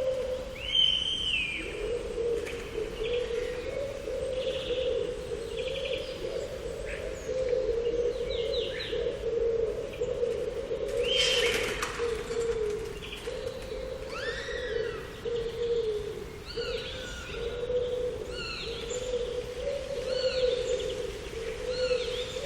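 Garden birds chirping and calling in short, repeated arched notes, over a steady, wavering low hum.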